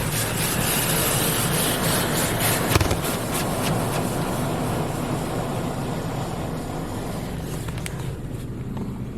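Hydro Spray Classic in-bay automatic car wash spraying water over the car, heard from inside the car: a steady hiss of spray over a low hum, with a single sharp knock about three seconds in, fading gradually toward the end as the spray moves off.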